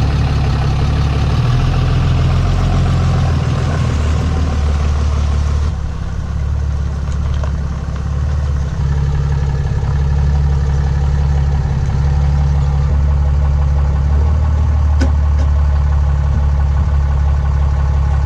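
Truck engine running steadily at idle, a deep even hum. A broad rushing noise over it falls away about six seconds in.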